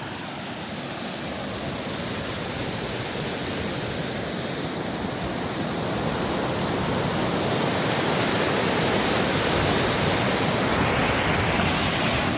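Rushing water of a fell stream: a steady, even roar that grows gradually louder as it comes nearer.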